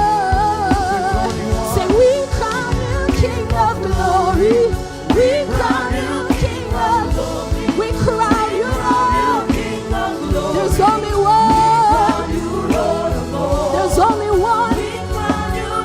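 Live gospel worship music: singers over a band with drums and bass, the melody wavering with vibrato.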